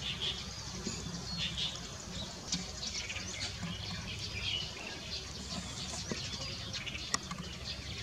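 Japanese white-eyes chirping: many short, thin, high calls and quick little whistled glides, close together and overlapping, over a steady low background hum. A single sharp click comes about seven seconds in.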